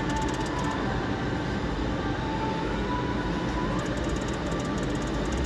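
Steady casino-floor din from rows of slot machines: a dense wash of noise with a few short, faint electronic tones.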